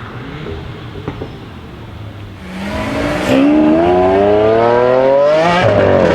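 Volkswagen Golf 8R's turbocharged four-cylinder engine pulling hard under acceleration. It starts quieter, then its pitch rises steadily for about three seconds before a quick drop near the end as it shifts up, and it climbs again.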